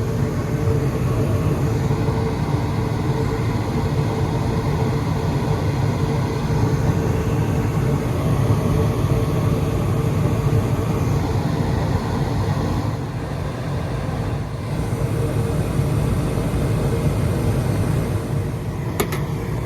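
Gas-fired rooftop HVAC unit running in heating mode on a call for heat, a steady low hum with a steady higher tone over it, with a couple of sharp clicks near the end.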